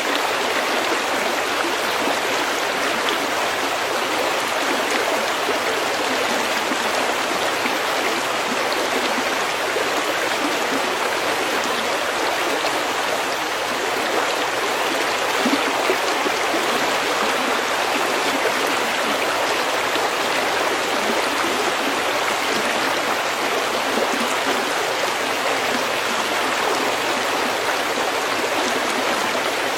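Stream flowing over pebbles, a steady, even rush and babble of running water.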